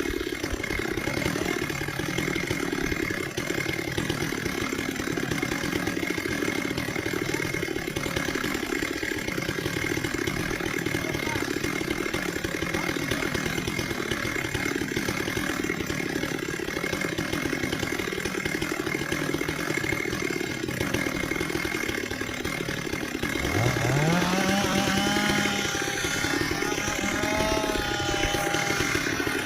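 Stihl two-stroke chainsaw engine running steadily at low speed. About 24 seconds in, an engine revs up in a quick rising whine and holds its higher pitch.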